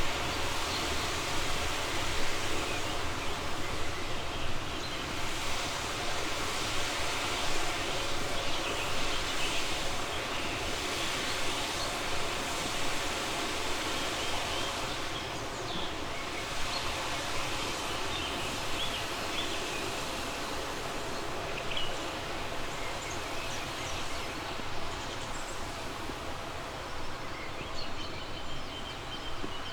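A river flowing in a steady rush, with birds chirping over it now and then, more often near the end.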